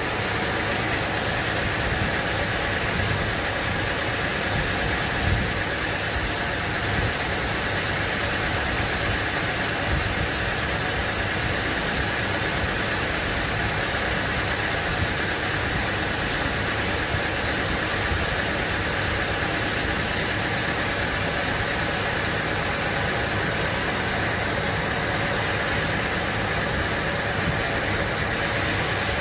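Sawmill machinery running steadily: a constant mechanical noise with a few light knocks.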